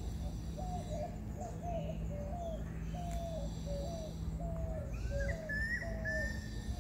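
A bird calling one short, hooked note over and over at a steady pace, about nine times. Near the end a second, higher-pitched bird call rises over it.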